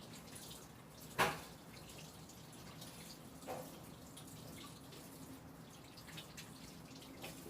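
Water running from a tap into a sink, with a sharp knock about a second in and a softer one a couple of seconds later.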